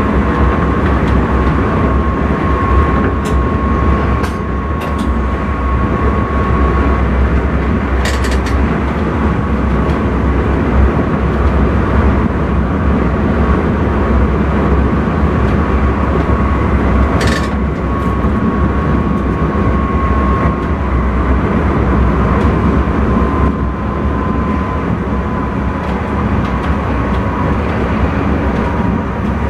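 Intercity train running at speed, heard from the driver's cab: a steady low rumble with a thin, steady whine that sinks slightly in pitch later on, and a few sharp clicks.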